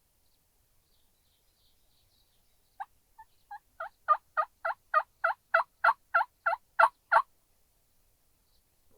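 A turkey yelping: a series of about fourteen evenly paced yelps, about three a second, starting soft and building louder.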